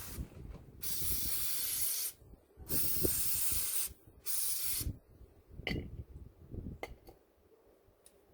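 Three bursts of hissing spray, about a second each, with a shorter, fainter burst after them, then a few light clicks.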